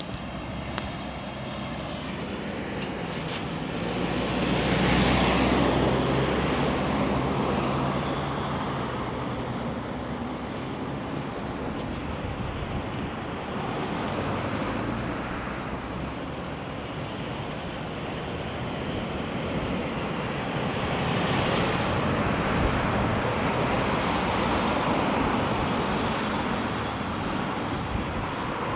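Road traffic going by, with a steady background of tyre and engine noise. One vehicle swells past loudly about five seconds in, with its engine's hum carrying for several seconds, and another passes loudly about twenty seconds in.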